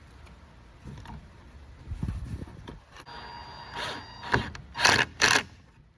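Workshop handling noise from screwing hinges onto a wooden filter door: knocks and scrapes, a short steady whine about three seconds in, and two loud rasping bursts near the end.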